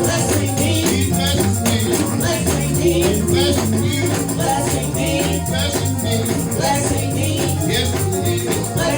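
Live gospel praise-band music: steady bass notes under a rhythmic beat with a shaker-like rattle, and voices joining in.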